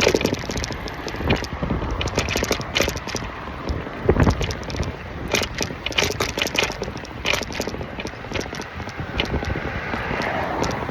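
A city bike clattering and rattling as it is ridden over the road, with irregular knocks and clicks over a steady road-noise rumble.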